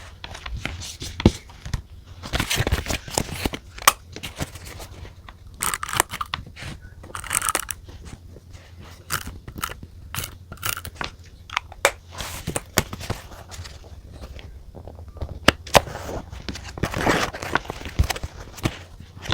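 Paper and stationery being handled at close range: stretches of rustling and scraping with scattered sharp clicks and taps, over a faint steady low hum.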